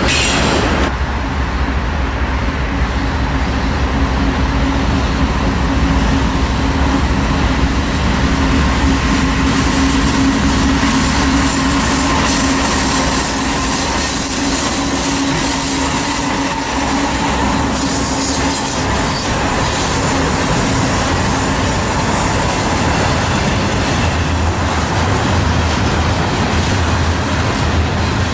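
Norfolk Southern freight train rolling past, a steady rumble of cars on the rails with a steady low drone that stops about three-quarters of the way through.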